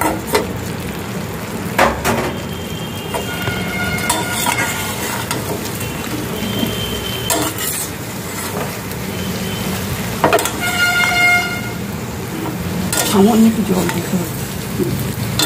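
Fried chicken pieces sizzling in a steel pan of gravy while a long steel spatula stirs them, scraping and clicking against the pan now and then. A pitched horn-like tone sounds twice in the background.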